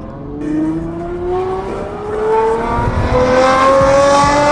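Aston Martin V12 engine accelerating, its pitch rising steadily in one long pull and growing louder over the second half.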